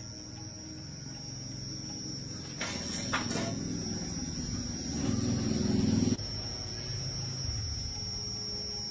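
Small single-cylinder 110cc Honda motorcycle engine running with a steady low throb, with a couple of clicks about three seconds in. It gets louder for about a second around the five-second mark, then drops back suddenly.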